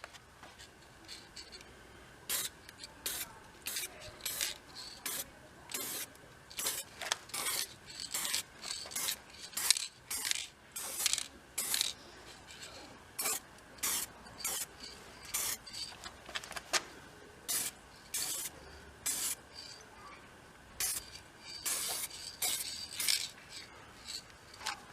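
Repeated hand strokes of something abrasive scraping or rubbing a surface, about one to two a second at an uneven pace, each a short hiss.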